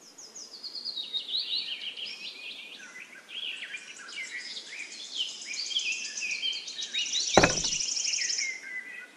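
Birds chirping and singing, many quick overlapping chirps and trills, with a single sharp thump about seven seconds in.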